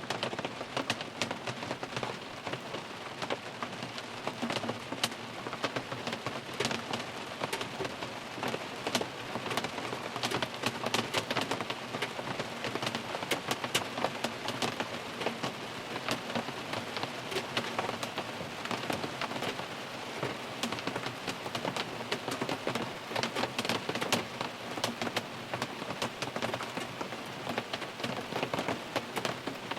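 Rain falling on a car, heard from inside the cabin: a steady hiss thick with countless individual drop hits on the roof and glass.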